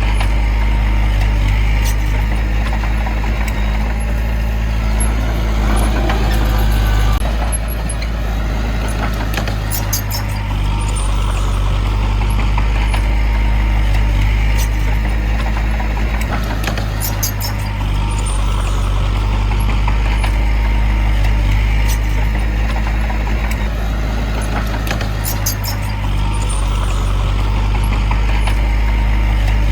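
Diesel engine of heavy earthmoving machinery running steadily under load, its sound swelling and easing in a repeating cycle about every eight or nine seconds, with brief clusters of faint high clicks at each easing.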